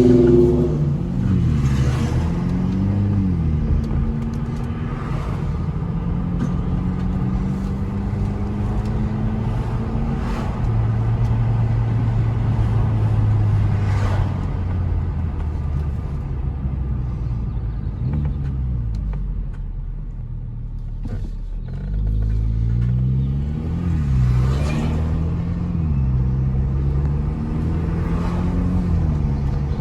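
Hyundai Elantra N Line's 1.6-litre turbocharged four-cylinder engine revving up and falling back several times under way, with brief hissing whooshes now and then as the throttle is lifted. The whooshes are the turbo's boost noise, made louder by an open cone air filter.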